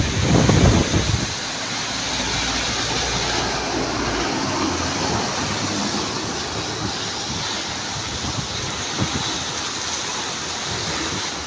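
Torrential monsoon rain falling steadily as a dense, even hiss. A brief low rumble sounds in the first second or so.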